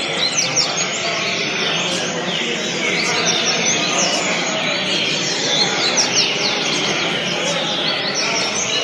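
A coleiro (double-collared seedeater) singing: rapid, twittering phrases of quick chirps repeated over and over without a pause, over a steady background hiss.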